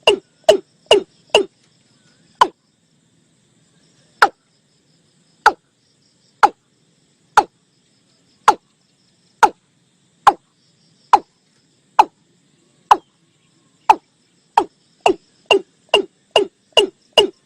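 Watercock calling: a series of short, hollow notes, each dropping in pitch. Quick notes at first, then a pause, then about one note a second that speeds up again near the end, a recorded call used as a lure for the birds.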